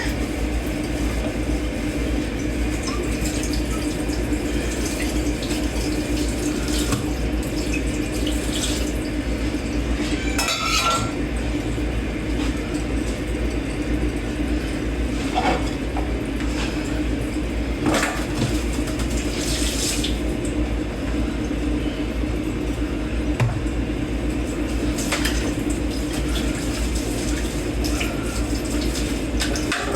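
Dishes being washed by hand in a kitchen sink: water running steadily, with dishes and cutlery clinking against each other now and then.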